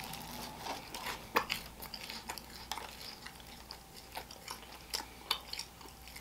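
A person biting into and chewing a croffle, a croissant crisped in a waffle iron: irregular, crisp crunches and mouth clicks.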